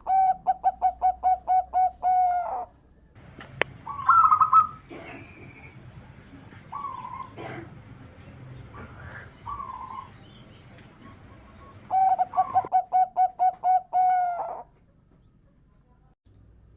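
Zebra dove (perkutut) singing: a fast, even run of staccato coos that ends in a drawn-out note. It comes twice, at the start and again about twelve seconds in, with softer bird calls between the bouts and a brief louder call about four seconds in.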